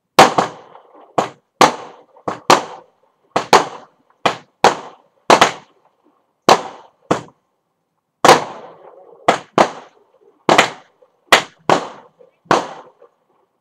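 Fireworks going off: a string of about twenty sharp, loud bangs at uneven spacing, each with a short echo.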